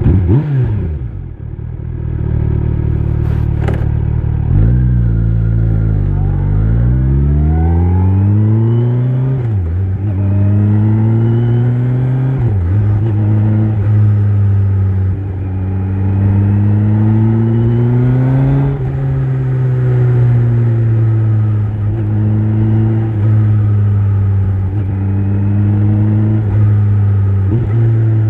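Kawasaki Z900's inline-four engine through an Akrapovic exhaust: idling, then pulling away and accelerating up through the gears, the pitch climbing and dropping sharply at each shift. Near the middle it winds down off the throttle and then runs at a fairly steady cruise.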